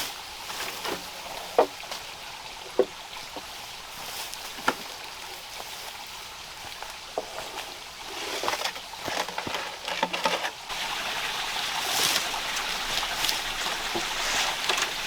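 Rain falling steadily with scattered sharp clicks and snaps. About ten seconds in, the hiss of falling water grows louder and steadier.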